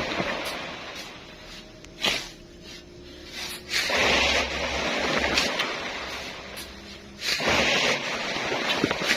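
Shovelfuls of soft sand thrown by hand into a dump truck's bed, each landing as a short rush of hiss, several times a few seconds apart.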